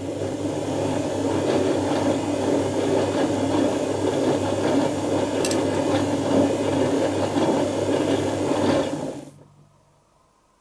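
Dyson Contrarotator CR01 washing machine turning its two contra-rotating drums through a wash tumble, with laundry and water churning over a steady motor hum. The tumble stops about nine seconds in, and the motor hum dies away a moment later.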